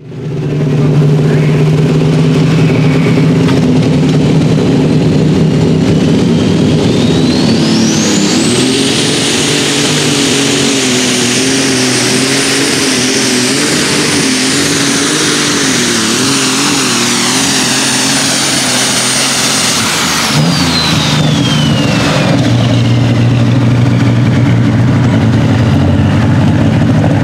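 Turbocharged super stock pulling tractor engine running low, then spooling up with a high turbo whine that climbs steeply about a quarter of the way in. It is held at full power, the engine note wavering under load, then backs off about two-thirds of the way through, the whine falling away as it drops back to a lower run.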